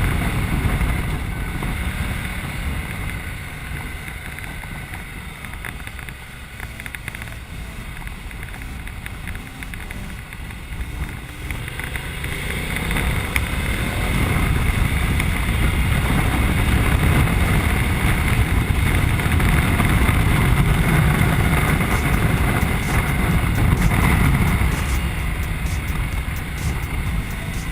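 Ducati Multistrada motorcycle running on the road, its engine rumbling under heavy wind noise on the microphone; the sound gets louder in the second half.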